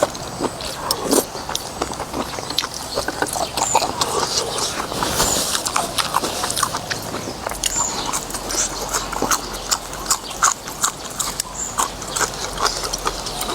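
Close-miked eating sounds: irregular wet chewing, lip smacks and slurps from a person eating noodles and meat from a soup, in a quick, uneven run of clicks.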